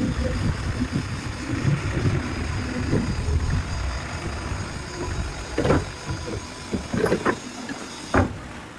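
Forging-workshop machinery rumbling, with four sharp metal knocks in the second half; the rumble fades near the end.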